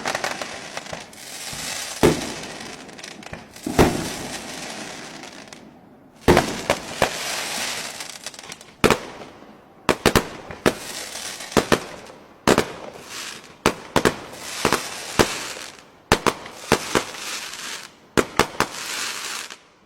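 Fireworks display: aerial shells bursting in a rapid series of sharp bangs, each followed by crackling and fizzing, growing denser in the second half.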